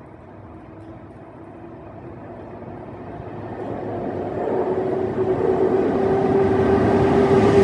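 Train approaching along the line, getting steadily louder, with a steady whine coming in about halfway through and strengthening as it draws near.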